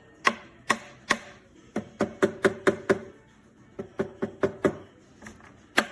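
A series of sharp knocks or taps: three spaced strikes, then two quick runs of about four a second, and two more near the end.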